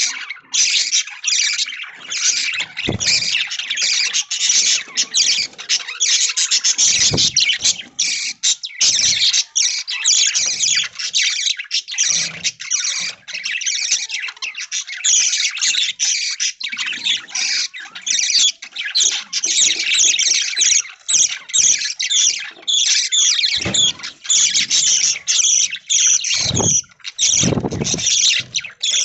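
A flock of budgies chattering and chirping nonstop, many rapid overlapping calls, with a few dull low bumps along the way.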